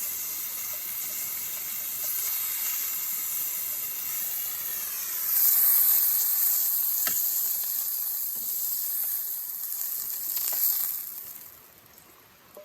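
Sizzling, as of food frying in a pan. It swells about five seconds in and dies away shortly before the end, with a few faint clicks.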